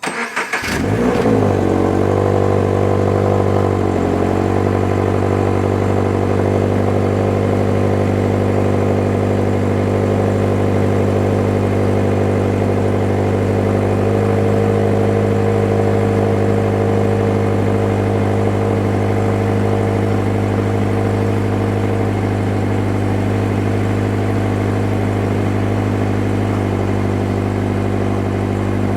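Subaru BRZ (first-generation ZC6) 2.0-litre FA20 flat-four with the stock muffler, cold-started: the starter cranks for about a second, the engine catches, and it settles into a steady fast cold idle at the exhaust. The idle note shifts slightly a few times as it runs.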